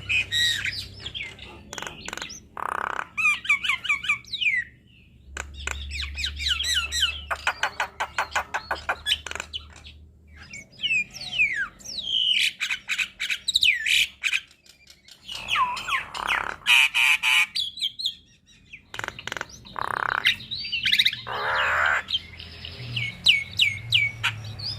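Javan myna singing a long, varied song of harsh squawks, rapid clicking rattles and whistled notes, with short pauses about five and fifteen seconds in.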